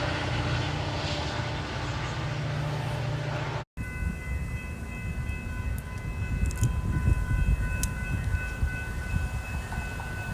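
A steady low rumble that cuts off suddenly. It is followed by a train rumbling past, with a steady chord of high ringing tones held over it.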